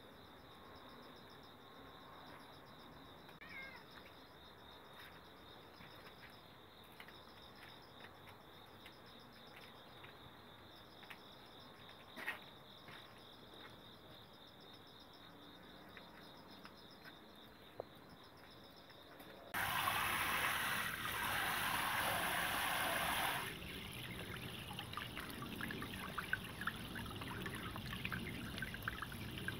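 Water pours noisily into a plastic basin for about four seconds, then grapes are swished by hand in the basin with small splashes. Before that there is a long quiet stretch of faint high chirring with a few light clicks.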